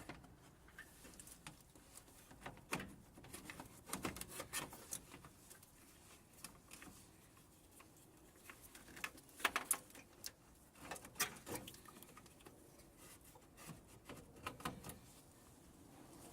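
Irregular light clicks, taps and small knocks of hand tools and car parts being handled, thickest in clusters about four, nine to eleven and fifteen seconds in.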